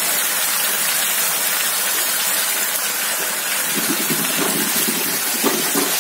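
Tomato, ginger and green-chilli paste sizzling steadily in hot oil in a frying pan. About four seconds in, a wooden spatula starts stirring through it.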